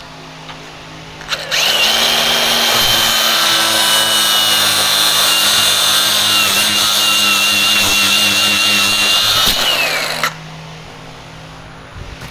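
A handheld power tool runs at a steady high whine for about nine seconds, then spins down and stops.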